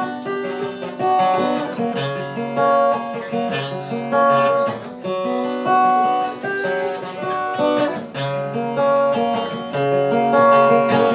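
Acoustic guitar played solo, strummed and picked in a repeating chord pattern.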